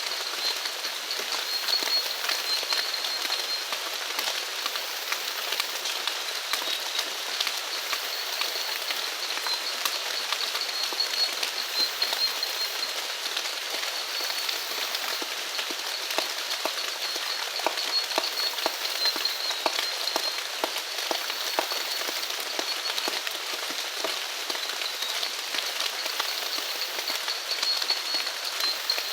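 Steady rain falling, a dense patter of drops, with a thin high-pitched trill holding steady above it.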